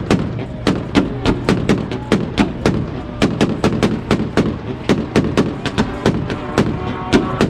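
Volkswagen's engine held at the rev limiter on two-step launch control, its exhaust popping and banging about four times a second over the running engine.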